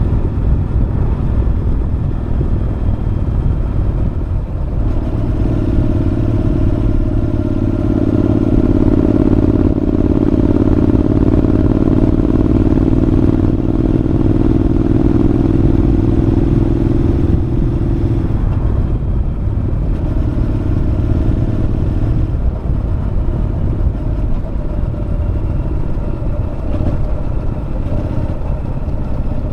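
Honda NC750X parallel-twin engine running through a Moriwaki aftermarket muffler while the motorcycle is ridden along. The exhaust note grows stronger and steadier from about five seconds in until about eighteen seconds, then eases back.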